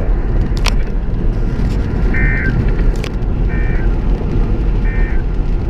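Steady road and tyre rumble inside a vehicle at highway speed. Three short electronic warbling buzzes about 1.4 seconds apart come from a weather radio: the data bursts that close its tornado-warning broadcast.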